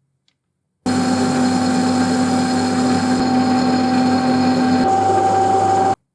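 Electric machine tool running steadily with a constant whine over a rough mechanical noise. It cuts in suddenly about a second in and cuts off just as suddenly near the end.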